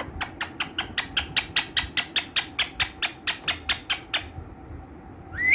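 Ringneck parakeet calling in a fast run of short, sharp high notes, about five a second, that stops about four seconds in; near the end it gives a louder call that rises in pitch.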